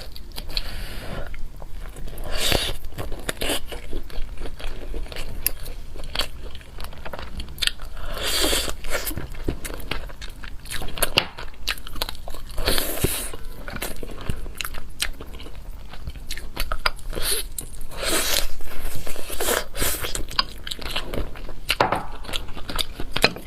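Close-miked eating: repeated bites and chewing, with many sharp mouth clicks and a louder, noisier bite or mouthful every few seconds.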